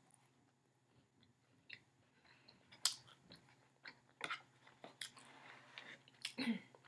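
A person chewing a soft glazed donut with her mouth close to the microphone: faint at first, then scattered short wet clicks and smacks from about halfway through, and a brief hummed voice sound near the end.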